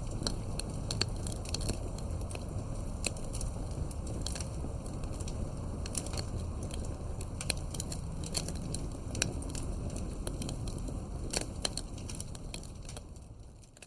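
Campfire crackling: many sharp pops and snaps over a steady low rumble of burning wood. The sound fades out near the end.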